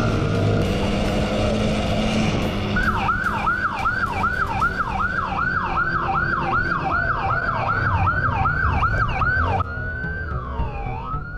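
Police siren on the yelp setting, sweeping up and down about three times a second over engine and road noise, switching abruptly near the end to a slower wail.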